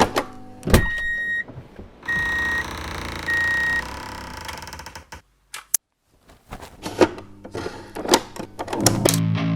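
Three short electronic beeps at one pitch in the first four seconds, followed by a run of sharp clicks and knocks; music with a steady low note begins near the end.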